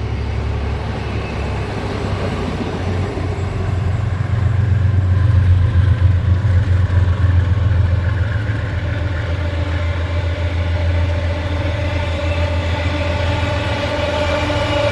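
Two Aurizon 2800-class diesel-electric locomotives hauling a container freight train past at close range: a heavy, steady low engine drone that swells in the middle, with higher engine tones coming up near the end as the locomotives draw level.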